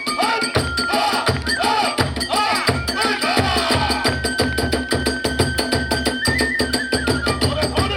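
Kagura hayashi ensemble playing: a big drum beating steadily under fast, sharp clashes of hand cymbals, with a bamboo flute holding long high notes.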